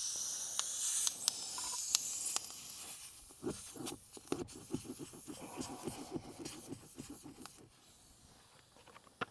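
Air hissing out of a leaking backhoe tire through the hole where the old plug has just been pulled, fading away over the first few seconds. It is followed by faint, quick scratching strokes, about four or five a second, before it goes nearly silent.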